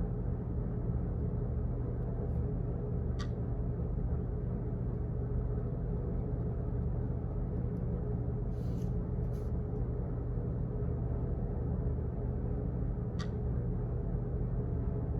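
Steady low office background hum. Two sharp clicks come about ten seconds apart, and two short rustles come just before the middle.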